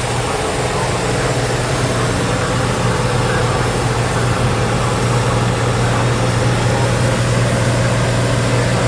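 Heavy diesel truck engine idling steadily with a low, even hum.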